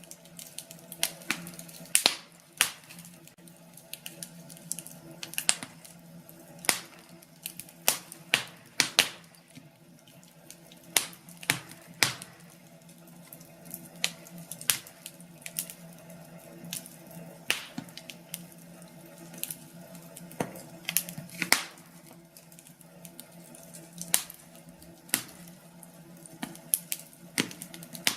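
Wood fire burning in a fireplace, crackling with irregular sharp pops and snaps over a faint steady low hum.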